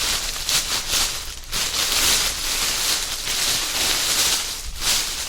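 Food packaging crinkling and rustling as it is handled and opened close to the microphone, a loud, continuous crackle.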